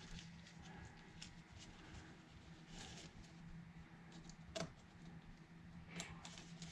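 Near silence with a faint steady hum and faint scattered handling clicks, two sharper clicks about four and a half and six seconds in.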